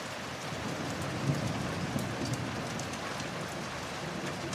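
Steady rain falling, with single drops ticking sharply over the wash. A low rumble of distant thunder swells about a second in and fades.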